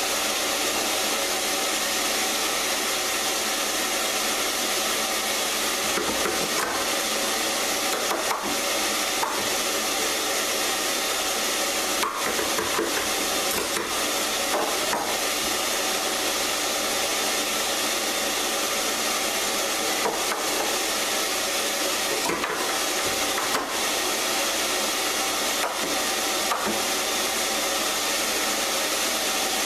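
Electric power tool running steadily as it works wood, with a few brief dips and catches along the way.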